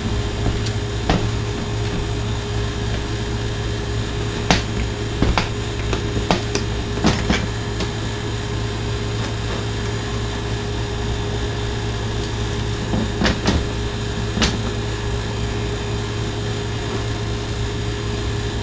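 Floor shifter mechanism being worked back and forth as grease is brushed into it, giving scattered metallic clicks and knocks, over a steady electrical hum.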